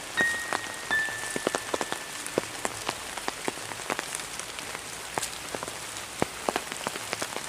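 Rain falling steadily, with many separate drops tapping sharply close by.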